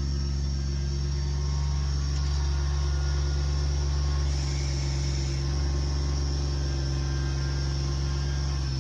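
A machine's engine running steadily at a constant speed, a low even drone.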